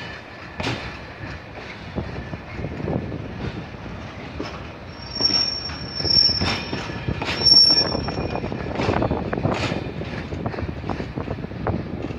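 Freight wagons loaded with rail sections rolling past, their wheels knocking repeatedly over rail joints and points. About five seconds in, a high wheel squeal starts and lasts a few seconds.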